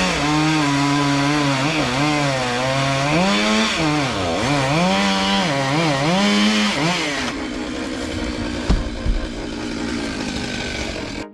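Gas chainsaw cutting wood, its engine note dipping and recovering several times as the chain bogs in the cut. About seven seconds in it runs steadier and quieter, with a couple of sharp knocks.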